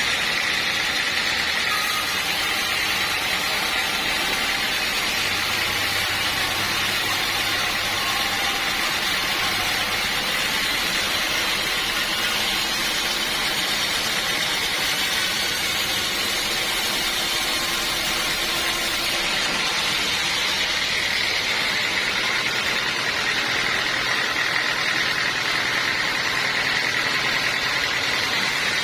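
Sawmill machinery running steadily, an engine-driven saw working with an even, unbroken noise.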